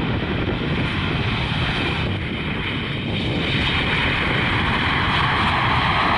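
Airbus A320 jet engines heard as the airliner comes in to land, a steady roar that grows slightly louder toward the end, over a low rumble of wind on the microphone.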